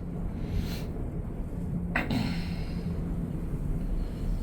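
Steady low rumble of a gondola cabin riding along its cable, with a faint hum, a short hiss about half a second in and a sharp click about two seconds in.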